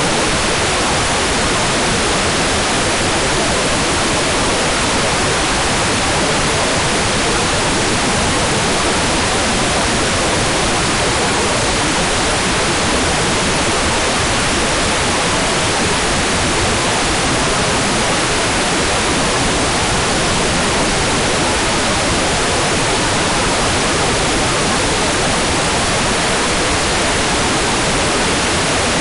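Hair dryer running steadily as a sleep sound: one continuous, even whoosh that does not change.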